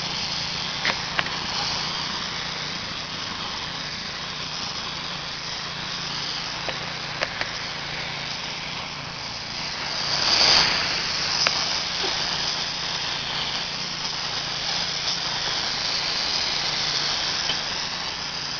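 Aerosol can of flying insect killer hissing in a long continuous spray into a bees' ground nest, swelling louder about ten seconds in, over a steady low hum.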